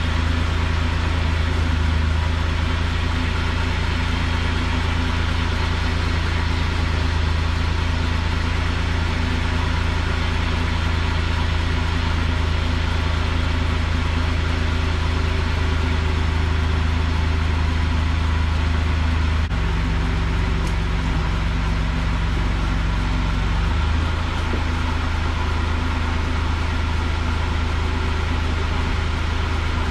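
2013 Toyota Sienna AWD's V6 engine running with the transmission in drive, turning the rear driveline, as a test run after the rear differential coupler bearing was replaced. A steady low hum that drops in pitch for about four seconds, some twenty seconds in, then comes back up.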